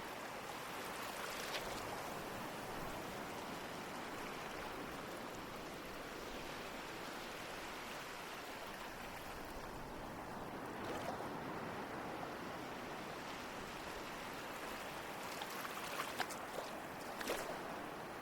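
Ocean waves washing in a steady surf wash, with a few sharper splashes of breaking water near the middle and toward the end.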